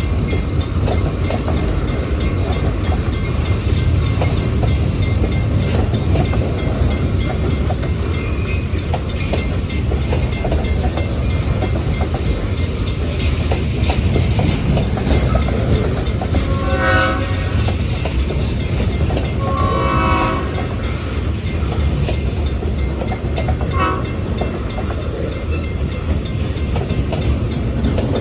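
Freight train rolling past on the rails: a steady rumble with the clickety-clack of wheels over rail joints, and two short train horn blasts about 17 and 20 seconds in.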